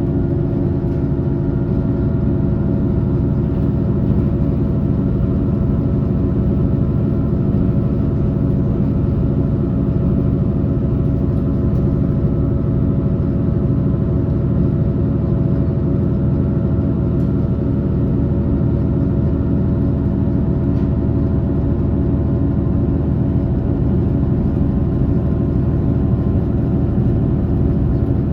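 Passenger train running steadily, heard from inside the carriage: a continuous rumble of wheels and running gear with a few steady humming tones over it.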